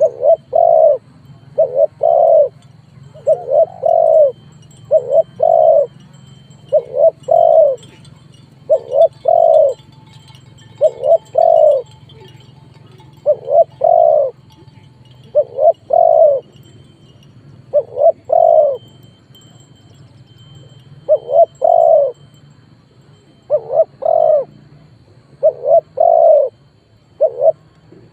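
Spotted dove cooing: a lure call used to draw wild spotted doves into a fight. Short phrases of two or three coo notes repeat about every two seconds over a faint low hum.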